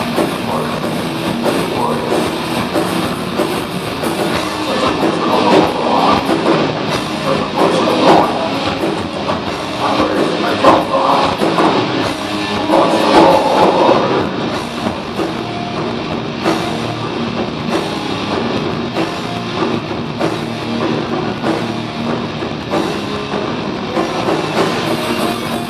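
Heavy metal band playing live, with electric guitars and a drum kit, loud and continuous.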